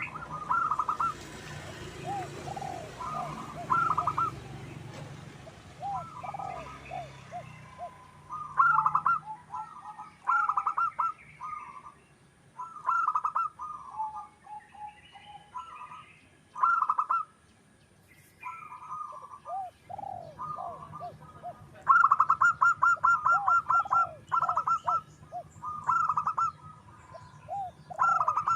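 Zebra dove (perkutut) cooing: repeated phrases of quick staccato coos, each ending in lower falling notes. Past the middle comes one long, rapid run of notes.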